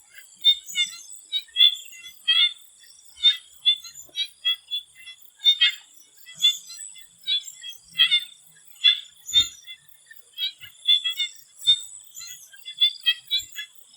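Chorus of swamp frogs calling: many short, overlapping calls at an uneven pace of about two or three a second, with a steady high insect whine underneath.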